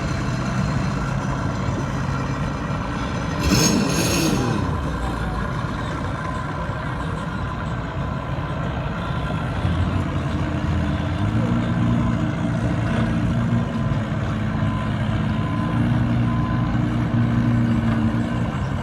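An engine running steadily at idle, with a brief louder surge about four seconds in; the engine's hum grows steadier and stronger about halfway through.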